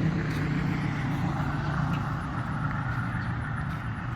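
Steady rumble of road traffic: a low hum with a noisy hiss over it.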